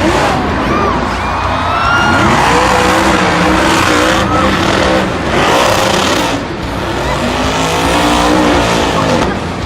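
Monster truck engine revving, its pitch climbing and falling again and again throughout, with loud mechanical noise and a few short high squeals over it.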